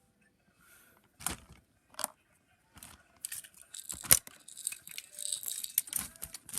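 Toys being handled: a few separate knocks, a sharp loud clack about four seconds in, then rattling and rustling.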